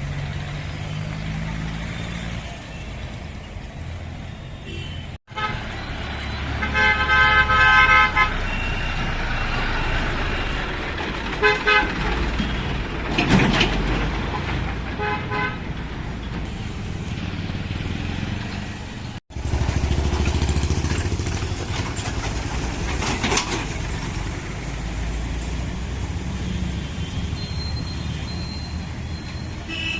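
Road traffic with engines running, a tractor among them, and vehicle horns honking: one long horn blast about seven seconds in, then several short toots.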